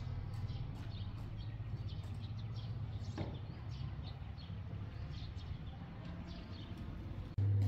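Small birds chirping in short, scattered calls over a steady low hum. Near the end the hum suddenly becomes much louder.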